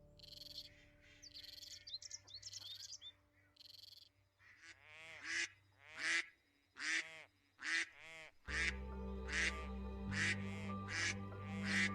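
A duck quacking in a steady series of calls, about two a second, preceded by high, thin duckling peeps. A low steady hum comes in about two-thirds of the way through.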